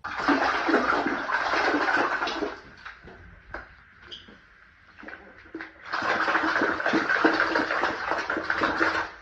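Rushing water, in two spells of a few seconds each with a quieter gap between.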